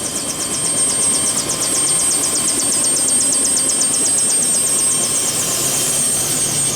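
Helicopter running: a steady high turbine whine over a noisy rumble, with a fast, even pulsing in the high whine.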